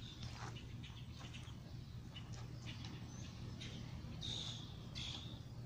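Faint outdoor bird chirps, two short high calls about four seconds in and again a second later, over a steady low hum and light scattered rustling.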